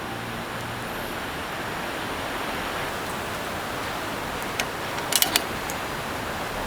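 Steady rushing hiss with a few sharp clicks about four and a half to five and a half seconds in.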